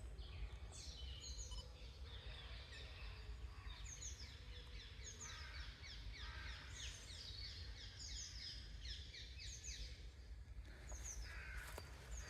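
Songbirds chirping and singing, a busy run of short, quick falling notes from several birds, over a low steady background rumble.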